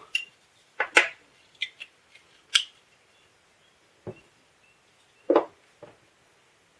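Hard plastic parts of a packing-tape gun clicking and knocking as it is taken apart by hand: a string of separate sharp knocks, the loudest about a second in, again near two and a half seconds and near five seconds.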